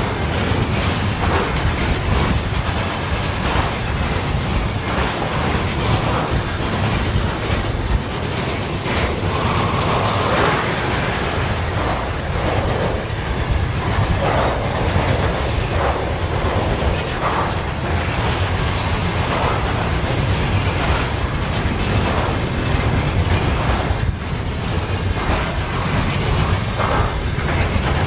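Freight train hauled by a VL85 electric locomotive rolling past, its wagons clattering over the rail joints in a steady, loud rumble.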